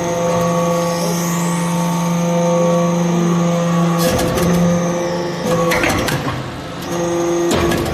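Hydraulic aluminum-chips baler running: a steady, loud machine hum with several pitches stacked, with bursts of knocking and clanking about four seconds in and again near the end.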